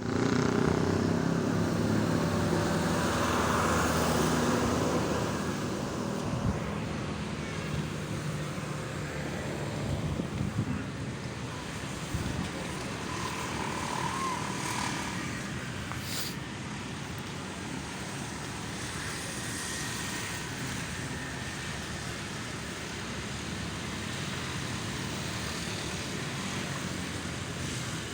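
Steady road traffic, with an engine passing close and loud during the first five seconds, then a quieter, even wash of passing vehicles.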